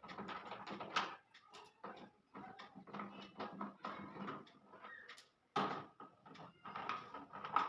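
Irregular clicks and metal knocks of hand tools and bolts as the front counterweights are fitted and tightened onto a front-load washing machine's tub.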